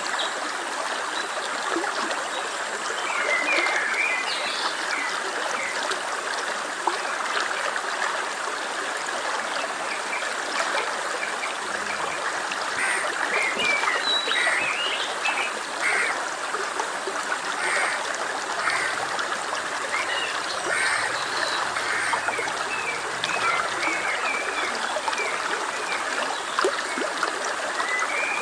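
Steady running water from a stream, with short high chirps scattered over it.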